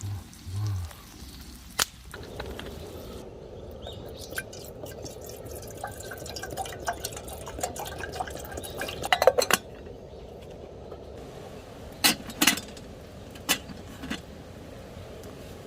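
Eating utensils clicking and clinking against an aluminium mess tin. The clicks are scattered, with a quick clatter about nine seconds in and a couple of louder clinks about twelve seconds in.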